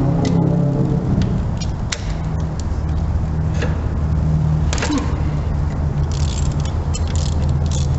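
Short metallic clicks and clanks of a ratchet, socket and extension working a tight spark plug loose, scattered and quickening near the end. They sit over a steady low, pitched hum from an unseen running motor.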